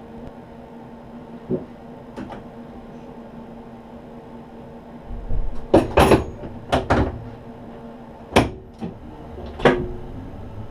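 Steady electrical hum of the standing electric rack-railway train in its cab, broken by a series of clunks and knocks, loudest in a cluster about six seconds in and again near eight and a half seconds.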